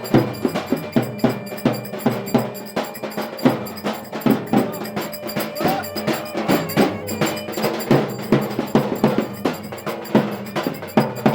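Turkish folk dance music (an oyun havası) with quick, busy percussion, many strokes a second, under a sustained melody line.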